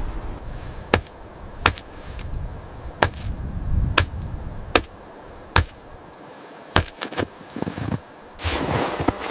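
A series of sharp knocks or chopping strikes, roughly one a second, with a quicker cluster of strikes about seven seconds in. A rushing noise starts near the end.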